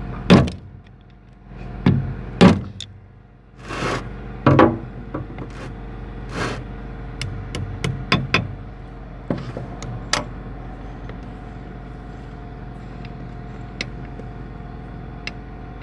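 Workshop handling of excavator swing-motor parts and tools: about five loud knocks and scrapes in the first seven seconds, then lighter clicks, over a steady machine hum.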